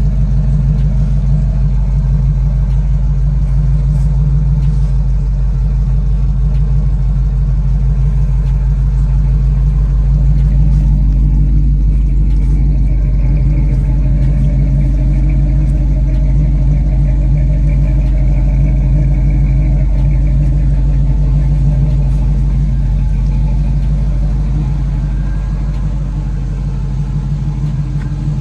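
Car engine idling steadily, a loud, even low-pitched running sound.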